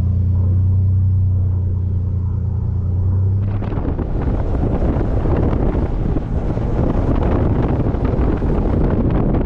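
Truck engine running with a steady low drone. About three and a half seconds in it gives way to a rough, rumbling noise as the truck bogs down in soft beach sand.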